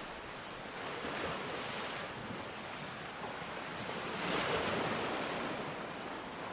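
Sea waves breaking and washing up the beach, over a steady hiss of rain. Two swells of surf, the larger about four seconds in.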